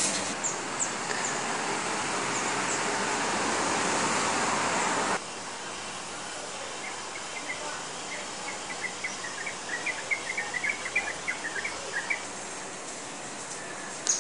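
Outdoor garden ambience. A steady rushing noise cuts off abruptly about five seconds in. Quieter background follows, in which a small bird chirps rapidly and repeatedly for several seconds in the middle.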